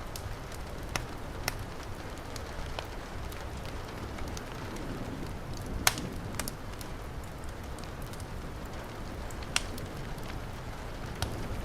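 Wood fire crackling with scattered sharp pops over the steady hiss of heavy rain; the loudest pop comes about six seconds in, another near the end.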